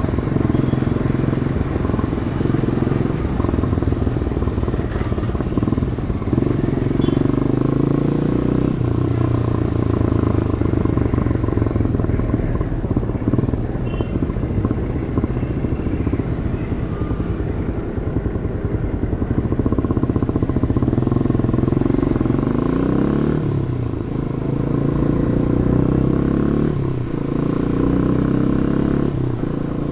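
Demak DTM 150 motorcycle's 150 cc engine through its stock exhaust, running under way at a fairly steady pitch, then near the end rising in pitch as it accelerates and dropping sharply at each of about three quick gear changes.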